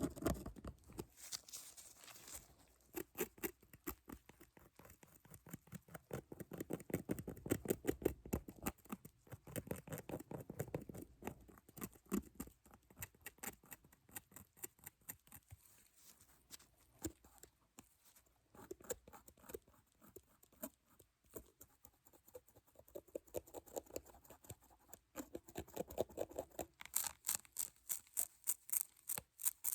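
Rapid light tapping and scratching close to the microphone, in quick runs of several taps a second, with a brighter, crisper run near the end.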